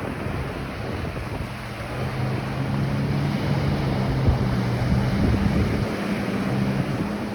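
Ocean surf washing onto a beach, with wind buffeting the microphone. A low steady hum, like a distant motor, joins in about two seconds in.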